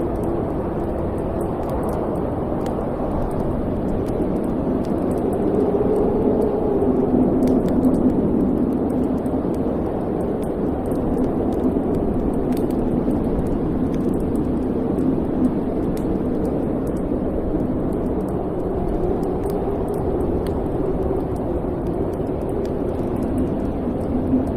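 Wood fire burning in a fireplace: a steady low rushing sound that swells and eases, with many faint scattered crackles.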